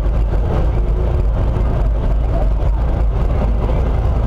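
Heavy truck engines running with a steady low rumble.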